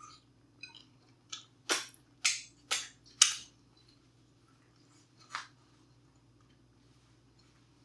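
Crunchy tortilla chips being chewed close to the microphone: four loud sharp crunches about half a second apart, then a softer one a couple of seconds later.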